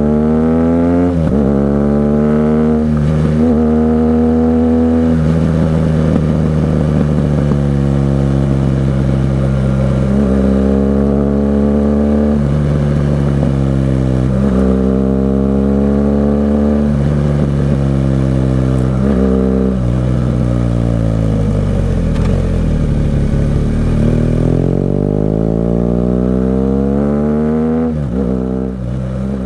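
BMW R 1200 GS Adventure's flat-twin boxer engine through an SC-Project aftermarket exhaust, accelerating through the gears. The pitch climbs and drops at each shift several times, then falls away as the bike slows about two-thirds of the way in and rises again as it pulls away. The sound fades near the end.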